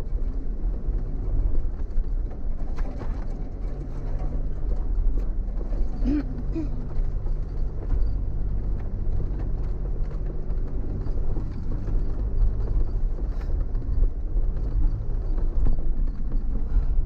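Vehicle engine running at low speed with tyres rumbling over a rough dirt track, and occasional knocks from the bumpy ground.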